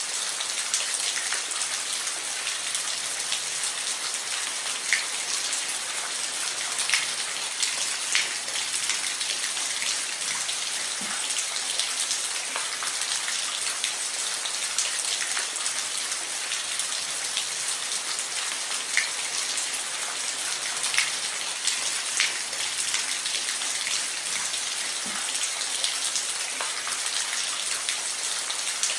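Steady rain falling on a roof: a continuous hiss with scattered sharper drop ticks.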